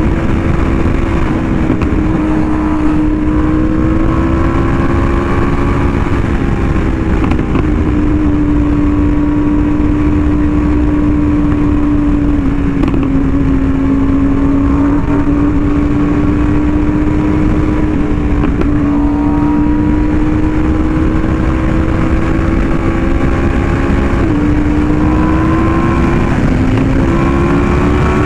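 Yamaha R1M's crossplane inline-four running through an SC Project exhaust at a steady highway cruise, its note holding fairly even, dipping slightly midway and climbing near the end as it picks up speed. Low wind rush runs underneath.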